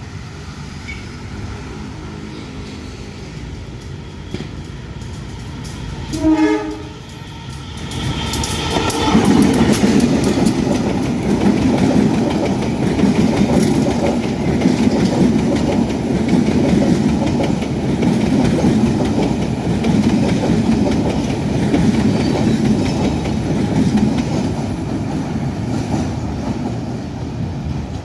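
Locomotive-hauled passenger train: the locomotive's horn sounds briefly about six seconds in. The train then passes close by for most of the rest, a loud rumble with wheel clatter over the rail joints, fading near the end.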